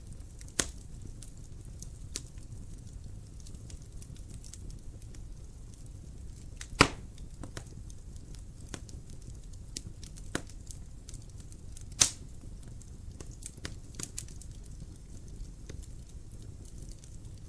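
Wood fire crackling in a fireplace: a low steady rumble under scattered small crackles, with three sharp pops, the loudest about seven seconds in.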